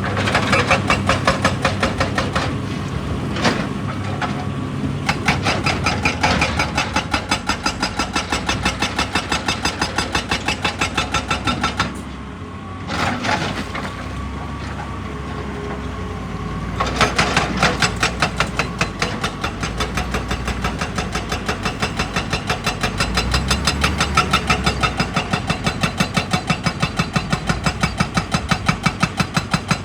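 Excavator-mounted hydraulic breaker hammering rock in a fast, even train of blows over the machine's engine. The blows stop briefly about twelve seconds in, stay weaker for a few seconds, then return strongly.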